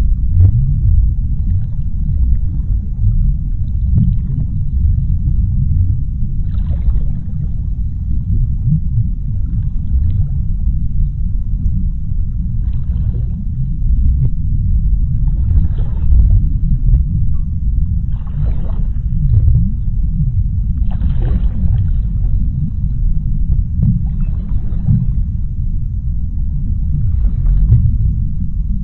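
Underwater sea ambience: a deep, steady rumble, with brief faint hissing swishes every two to three seconds.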